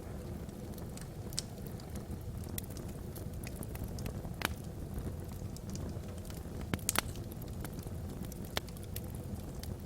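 Wood fire burning logs in a fireplace: a steady low rumble of flame with scattered sharp crackles and pops, a pair of louder pops about seven seconds in.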